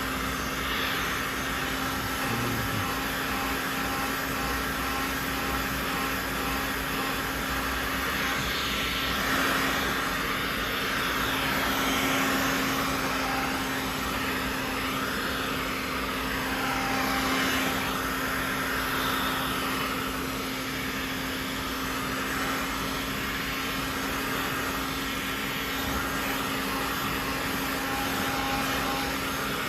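A small electric blower motor running steadily, a constant hum under a rush of air, swelling slightly a few times.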